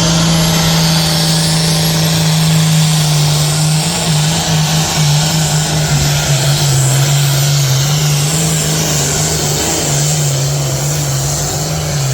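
Pulling vehicle's engine running hard at high revs under load: a loud, steady drone whose pitch steps down and back up a few times.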